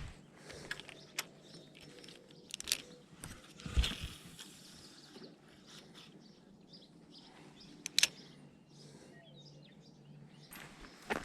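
Scattered clicks and knocks over quiet outdoor background, the loudest a dull thump about four seconds in and a sharp click about eight seconds in, with faint bird chirps.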